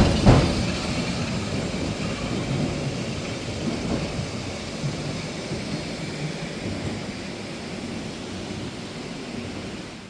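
A train running on rails, a steady rumble with a couple of sharp knocks near the start, slowly fading away.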